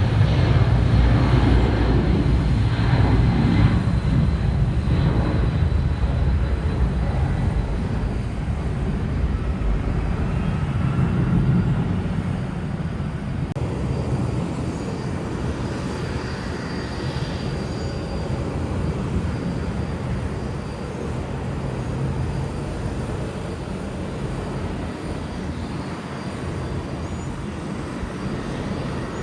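Jet airliner engines rumbling, a low, steady noise that is loudest in the first dozen seconds and then slowly fades.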